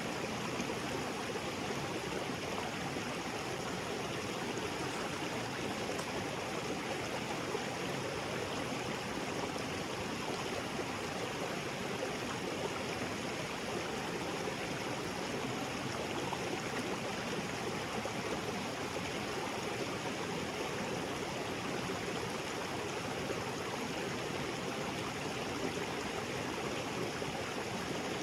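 Small waterfall pouring into a rocky creek: a steady, even rush of falling and flowing water.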